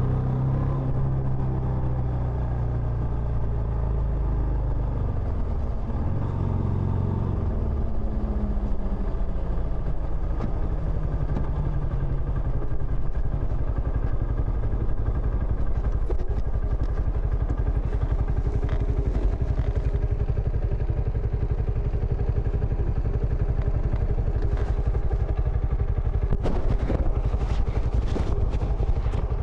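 Benelli Imperiale 400's single-cylinder engine running through its stock exhaust. Its pitch drops between about six and ten seconds in, then holds steady, with some brief clatter near the end.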